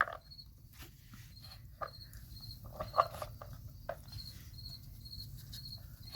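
Scattered light clicks and knocks of a dog treat puzzle's covers being nosed and flipped by a puppy hunting for treats, over faint high chirps that repeat throughout.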